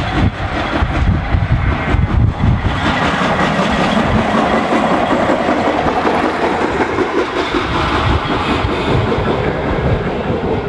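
Narrow-gauge train running along the track, with a steady rumble and the rattle of wheels over rail joints, swelling from about three seconds in.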